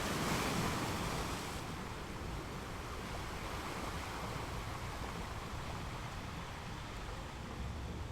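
Small ocean waves washing onto a beach: one breaks at the start and its wash fades over the next second or so, then a steady surf hiss.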